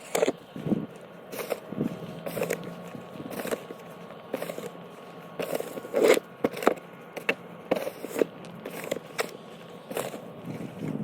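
Repeated crunching and scraping strokes on snow or ice, roughly one a second at uneven spacing, the loudest about halfway through, over a faint steady hum.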